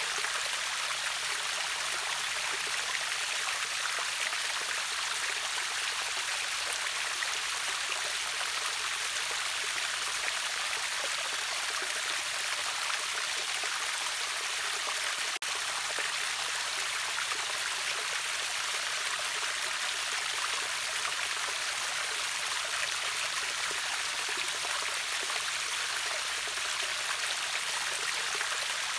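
River waterfall rushing steadily, an even hiss of falling and flowing water, with a momentary dropout about halfway through.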